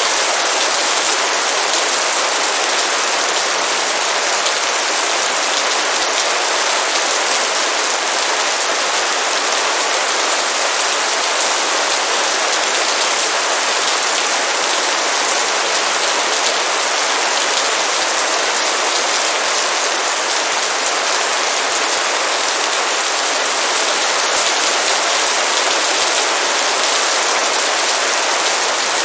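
Heavy rain pouring down steadily, a dense, even hiss of countless drops with no let-up.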